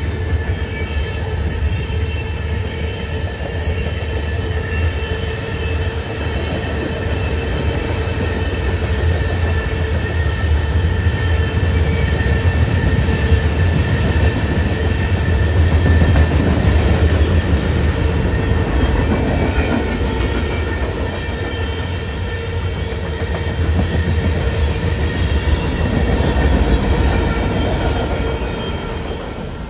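Freight cars (tank cars and covered hoppers) rolling past on the rails with a steady heavy rumble and wheel clatter, and a thin steady wheel squeal ringing above it. The sound begins to fade right at the end.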